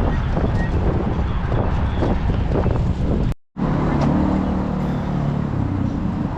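Wind rushing over the microphone during the ride, then after an abrupt cut, a vehicle engine running with a steady low hum.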